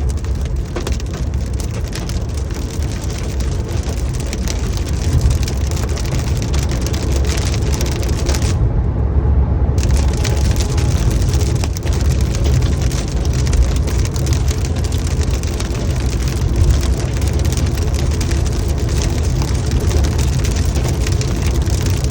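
Hail and rain falling hard: a dense, steady patter of many small impacts over a continuous low rumble.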